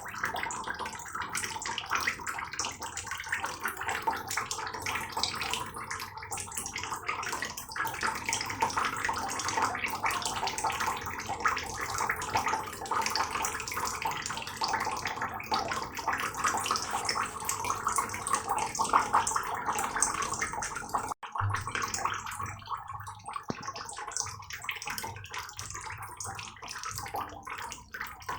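Heavy rain falling steadily, a dense patter of countless drops. The sound cuts out for an instant about three-quarters of the way through, then carries on.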